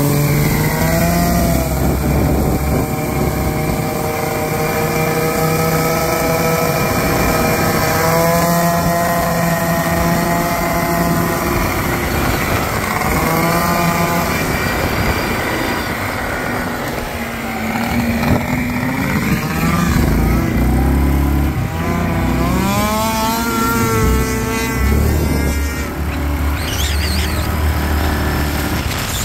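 A Ski-Doo Rotax 670 two-stroke engine in a 1989 Honda Pilot being driven hard, revving up and falling back again and again as the throttle opens and closes.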